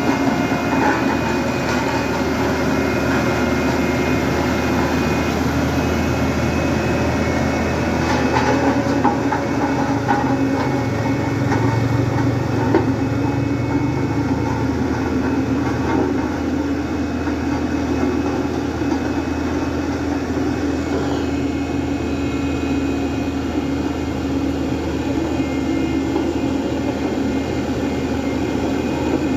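Heavy diesel engine running steadily, with a continuous metallic rattle over it.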